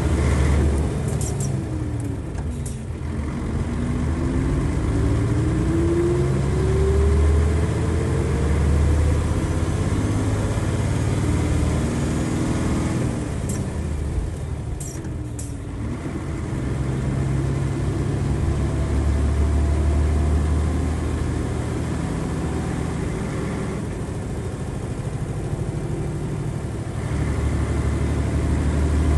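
Nissan Diesel FE92TA turbocharged diesel bus engine pulling hard at high revs. Its pitch drops a few seconds in and again about halfway through, each time climbing back up as the bus accelerates, with short ticks near each drop.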